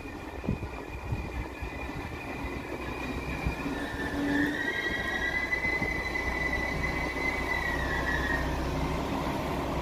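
Alstom Coradia LINT 41 diesel railcar (class 1648) pulling into the platform, its running noise growing louder as it approaches. A high-pitched wheel squeal starts about four seconds in and dies away near the end as the train slows.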